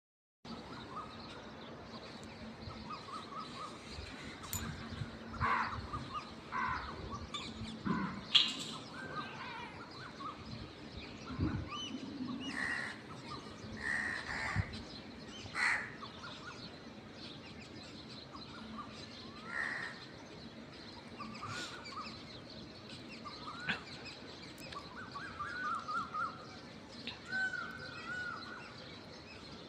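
Crows cawing, short harsh calls repeated every few seconds, with smaller birds chirping in between over steady outdoor background noise.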